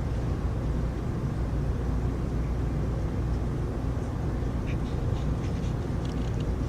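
Heavy rain falling steadily, heard as an even, low rushing noise, with a few faint high ticks like drips about two-thirds of the way through.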